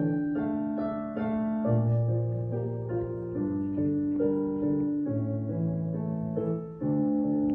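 Solo instrumental music: a slow melody over long held chords and bass notes, with a short break near the end before a new chord comes in.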